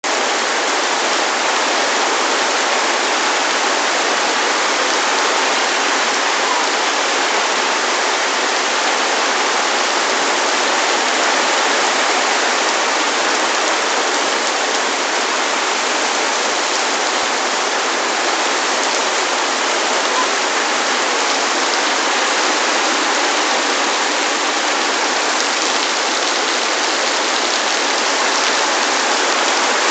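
Heavy rain falling steadily on a lake's surface, an even, unbroken hiss of drops hitting the water.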